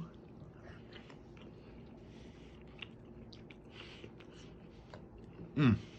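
A person quietly chewing food, with faint light clicks and ticks. About five and a half seconds in comes one short, louder voiced sound that falls in pitch.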